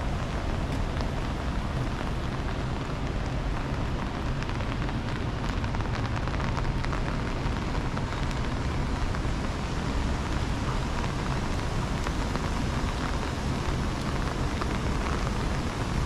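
Steady rain falling, with many small drop taps over a continuous low rumble.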